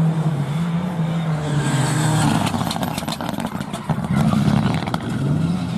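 Rally car engine running hard, its note holding, dropping a little about two seconds in and rising again near the end as it revs. A rapid flurry of sharp clicks and clatter comes through the middle.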